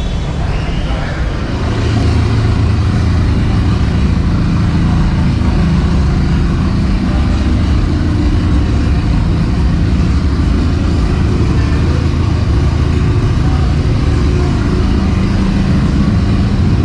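A car engine running with a deep, steady exhaust rumble; it gets louder about two seconds in and then holds steady.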